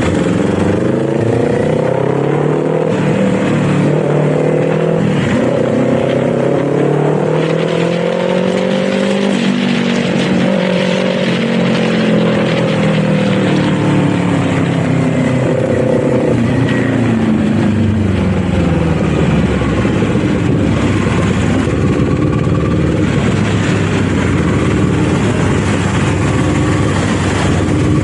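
Kawasaki Z400's 399 cc parallel-twin engine under way, its pitch rising under throttle and dropping again several times as the rider accelerates, shifts and eases off, over steady wind and road noise.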